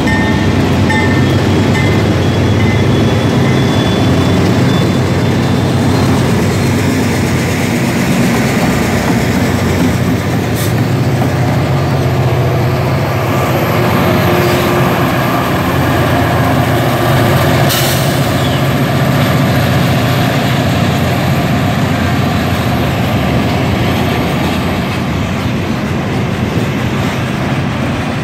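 Union Pacific freight train passing close by: diesel locomotive engines humming steadily over the rumble of freight cars rolling on the rails. A couple of sharp clicks from the wheels on the track, about ten and eighteen seconds in.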